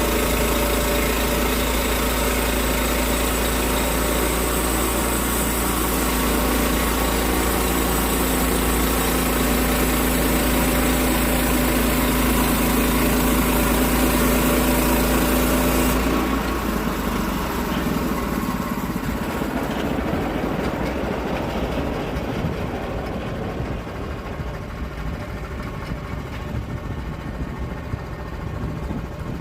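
Engine-driven log sawmill running steadily while it cuts oak. About 16 seconds in, the high hiss of the cut stops suddenly and the engine sound falls off and grows quieter over the following seconds.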